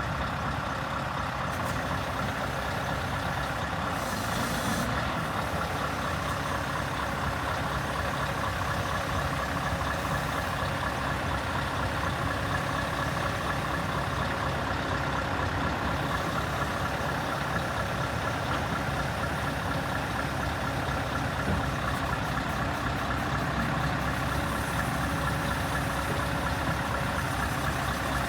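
Scania R580 truck's V8 diesel engine running steadily, most like at idle.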